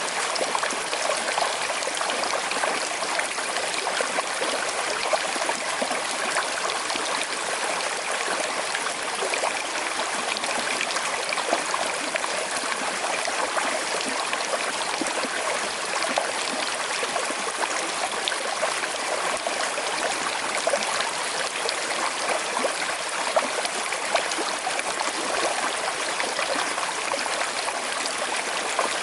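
Small river flowing over stones in a slight current, a steady rush of water with fine trickling and babbling detail.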